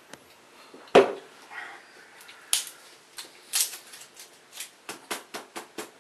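A single heavy thump about a second in, then a string of irregular sharp clicks and crackles, typical of handling small objects on a tabletop.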